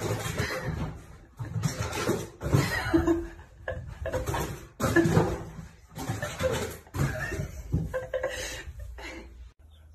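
A person laughing hard in repeated breathy bursts, each under a second, fading out near the end.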